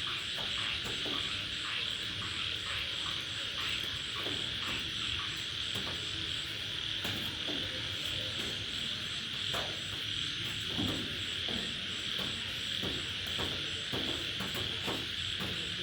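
Steady chorus of crickets and other night insects, with a very high chirp repeating about three times a second, over scattered irregular taps of raindrops.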